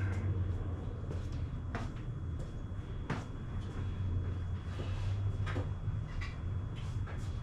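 Scattered clicks and knocks of metal tools being handled and a toolbox drawer opening and closing, as a 1/2-inch socket is fetched, over a steady low hum.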